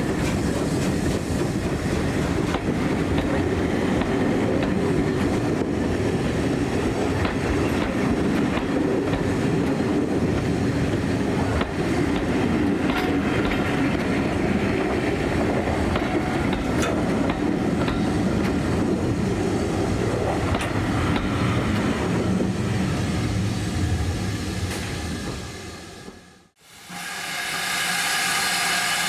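Heritage train passing on the West Somerset Railway's steam gala line, its carriage wheels clattering over the rail joints. The sound fades out about 26 seconds in, and a different steady hiss follows near the end.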